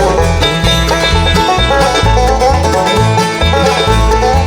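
Bluegrass band playing an instrumental break between sung lines: banjo and guitar picking over a steady, regular bass beat.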